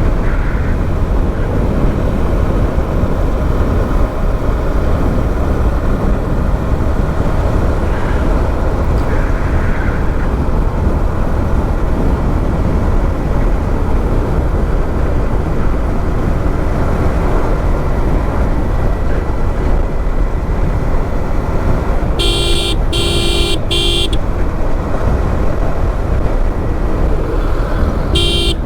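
Motorcycle riding noise: a steady rumble of engine, wind and road. About 22 seconds in, a horn beeps three times in quick succession, and once more near the end.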